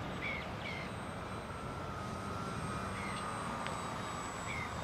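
Radio-controlled model aeroplane in flight, its motor a faint steady whine, with a few short high chirps over it.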